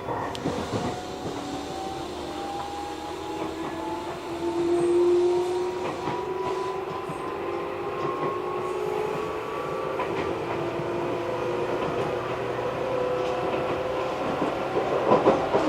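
Electric train running, its motor whine slowly rising in pitch as it gathers speed, with wheels clicking over rail joints.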